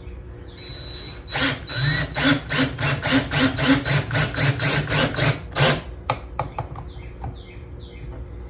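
A hand tool working in quick, even strokes, about four a second, for several seconds, then a few separate clicks.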